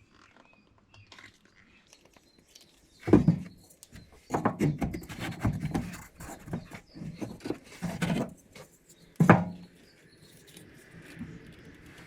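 Irregular wooden knocks and scraping as cut 2x4 pieces are handled and pressed into the microwave cabinet's framing. Two sharp knocks stand out, about three seconds in and again about nine seconds in, with a run of smaller knocks and rubbing between them.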